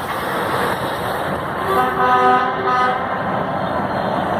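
Heavy trucks in a passing convoy, their engines and tyres making a steady rumble. A truck's horn sounds for about a second, a little under two seconds in.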